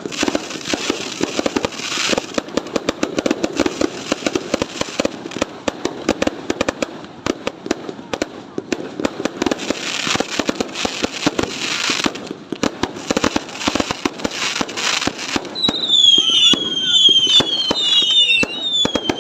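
Fireworks going off continuously: a dense run of rapid bangs and crackles with bursts of hiss. Near the end several falling whistles sound over the bangs.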